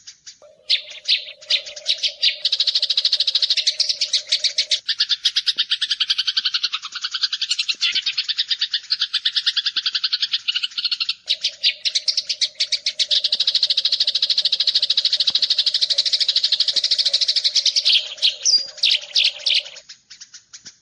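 Eurasian tree sparrows chirping in a fast, tightly packed run of sharp chirps that pauses briefly near the end, the kind of sparrow chatter used as a tutor recording for songbirds. A low steady tone runs underneath for long stretches.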